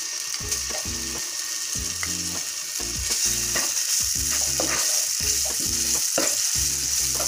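Blended onion paste sizzling in hot oil in a nonstick frying pan while a spatula stirs and scrapes it across the pan. The sizzle grows louder about three seconds in.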